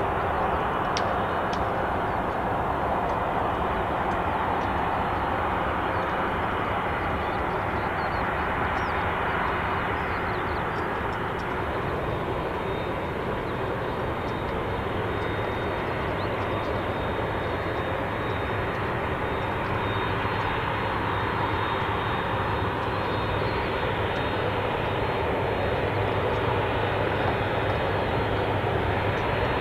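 Turbofan engines of a Lockheed C-5M Super Galaxy running steadily: a high whine over a low rumble.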